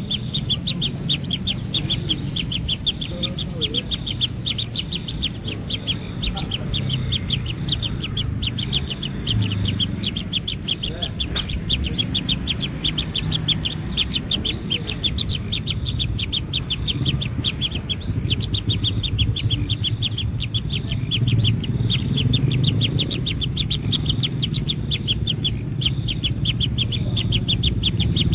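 A bird chirping rapidly and repeatedly, several short chirps a second without a break. A steady high whine, like an insect, runs under it and stops about halfway, over a low rumble.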